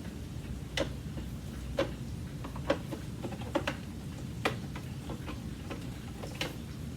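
Irregular sharp clicks and light knocks of plastic parts being handled on an old Hoover vacuum, about one or two a second, over a steady low hum.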